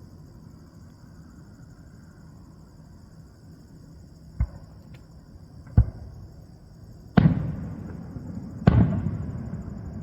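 Fireworks shells bursting at a display: two sharp bangs, then two louder booms, each of the louder ones followed by a long rolling rumble that fades.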